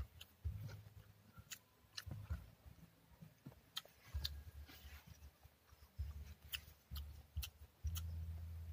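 A person eating with her hands and chewing: scattered sharp clicks and smacks, with low rumbles coming and going.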